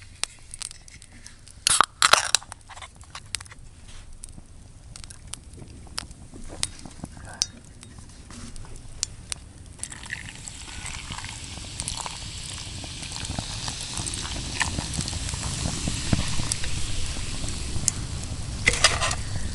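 Wood fire crackling and popping in scattered clicks, with a hiss that builds from about halfway in. Two short, louder noisy bursts come near the start and near the end.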